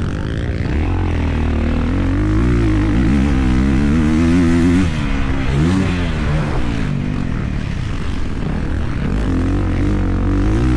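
Dirt bike engine running under changing throttle, its pitch rising and falling repeatedly, with a dip and then a quick climb in revs about five to six seconds in.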